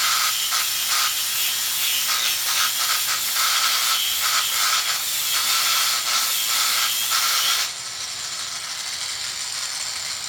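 Proxxon long-neck mini die grinder spinning its sanding wheel at high speed: a steady high whine with an uneven, scratchy rasp as the wheel sands against the surface. About three-quarters of the way through the sound drops suddenly and the grinder runs on more quietly.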